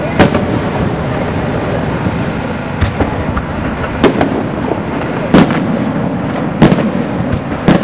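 Aerial fireworks going off: six sharp shell bursts, about one every second and a quarter, over a continuous noisy rumble and crackle.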